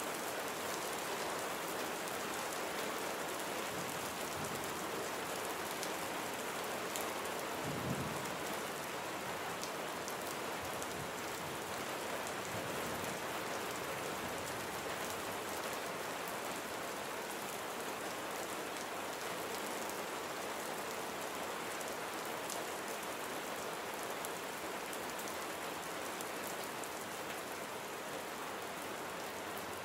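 Steady rain falling on a surface, with individual close drops ticking now and then. A brief low thump sounds about eight seconds in.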